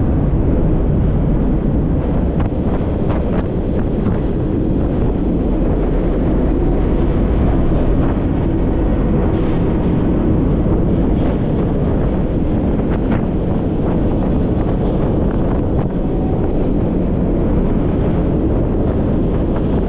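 Freight train running, heard from inside an open boxcar: a loud, steady rumble of steel wheels on the rails with wind buffeting the microphone, and now and then a faint click or knock.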